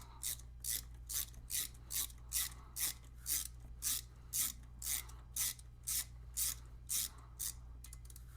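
Rhythmic rasping strokes, about two and a half per second, from a hand tool working loose the tight pin that holds the rear brake pads in the caliper.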